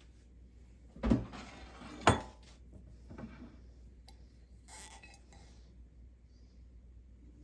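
Dishware being handled: two sharp, loud knocks about a second apart, then a few softer clinks.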